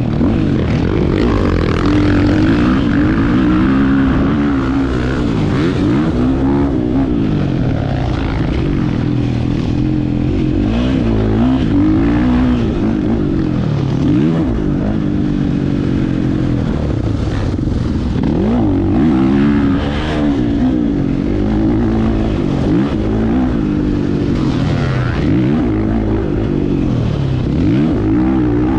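Husqvarna FE 501 dirt bike's single-cylinder four-stroke engine revving up and falling back again and again as it is ridden round a motocross track, the pitch climbing and dropping every second or two.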